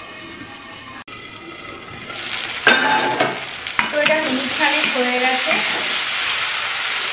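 Potato chunks, tomato and onion frying in hot oil in a black wok, stirred with a metal spatula: sizzling with the spatula scraping and knocking against the pan. After a quieter start, the sizzle grows loud about two seconds in, with a sharp clank near three seconds.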